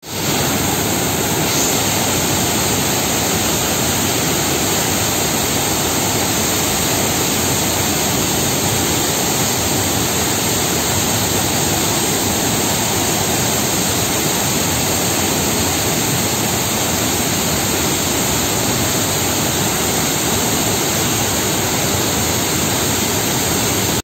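Waterfall pouring, a loud, steady rushing noise with no break.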